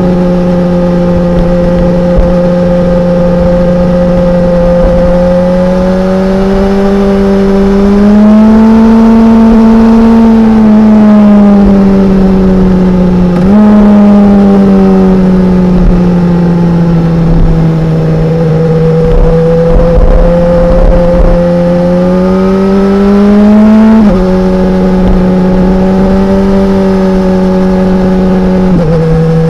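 2016 BMW S1000R's inline-four engine running loud under way, its pitch rising and falling with the throttle. There are three sudden steps in pitch at gear changes: a jump up a little before halfway, then drops about four-fifths of the way through and near the end.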